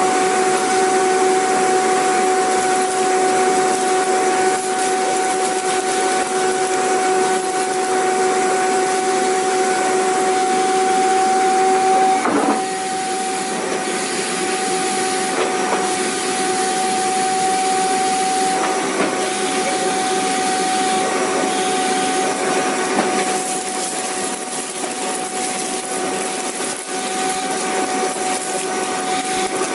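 Vacuum cleaner running steadily: a constant whine over a rushing hiss. About twelve seconds in the whine dips briefly and the sound settles a little quieter.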